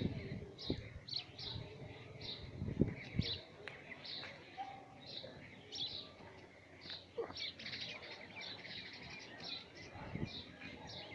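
A small bird calling over and over in short, high chirps, about two a second, with a few low bumps of wind or handling noise on the microphone.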